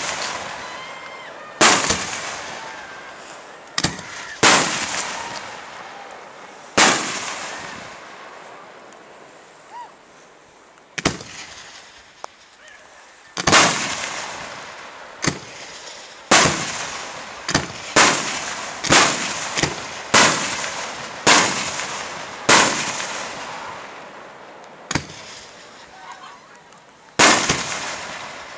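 Aerial firework shells bursting one after another, each a sharp bang whose echo dies away over a second or two. There is a lull of a few seconds in the first half, then the bursts come in quick succession, often about a second apart.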